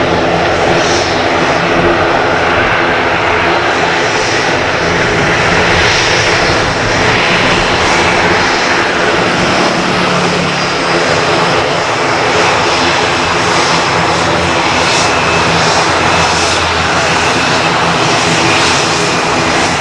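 Boeing 787-9 Dreamliner jet engines heard close by, a loud, steady, unbroken roar.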